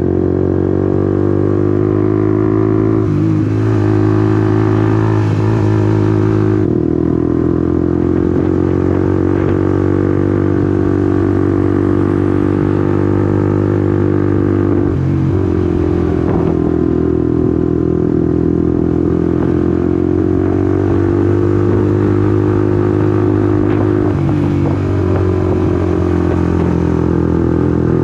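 Honda CBR150R's single-cylinder engine running while the bike is ridden. Its note climbs slowly and falls away, with short sharp dips in pitch about three seconds in, around the middle and near the end.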